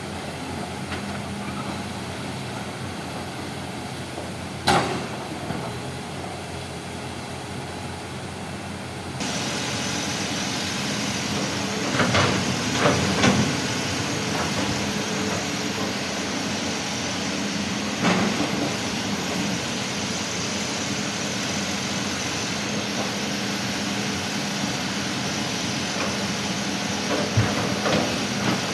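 Heavy diesel engine running steadily at a low hum, stepping up louder about nine seconds in. Over it come sharp thuds of coral rock dropping into the dump truck's bed: one about five seconds in, a cluster of several around twelve to thirteen seconds, another around eighteen seconds and one near the end.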